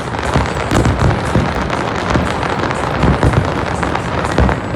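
An aerial fireworks display in full swing: a dense run of overlapping booms from shells bursting, with crackling between them.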